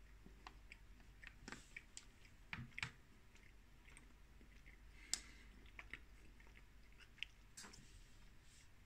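Faint chewing of a soft, chocolate-coated Lebkuchen cake heart with apricot filling: scattered small mouth clicks and moist smacks, a few slightly louder than the rest.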